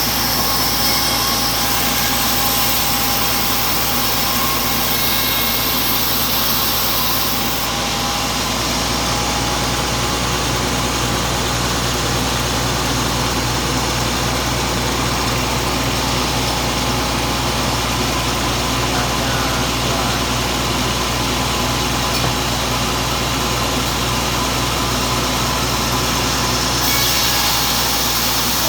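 Carriage sawmill's saw running steadily while sawing a green (freshly felled) teak log. Its sound changes about eight seconds in and changes back again near the end.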